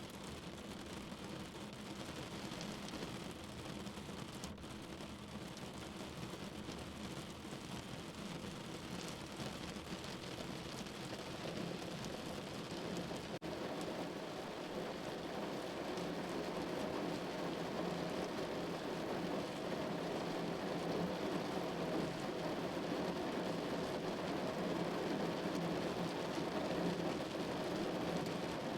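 Steady rain falling, louder in the second half.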